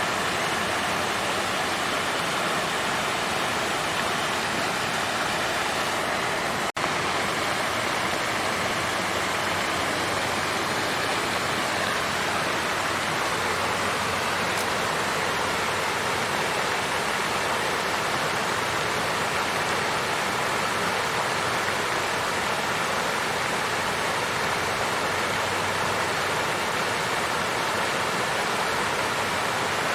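Water fountain flowing steadily, an even rush of falling water. It cuts out for a split second about seven seconds in.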